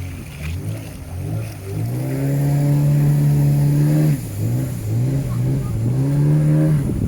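Boat motor running and revving: its pitch climbs and holds, dips sharply about four seconds in, then climbs again.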